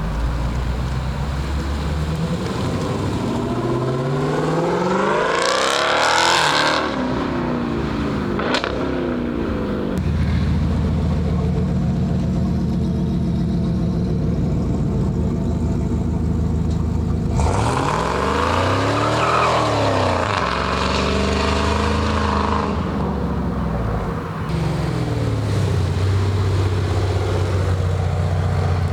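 Car engine idling and being revved: a long climb in revs to a peak about six seconds in, a sharp crack a couple of seconds later, then a quick blip up and back down about two-thirds of the way through and a smaller one after it, settling back to a steady idle.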